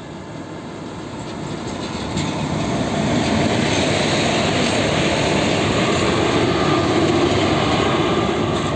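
Train passing slowly along the track, growing louder over the first few seconds as it comes near and then running steadily close by.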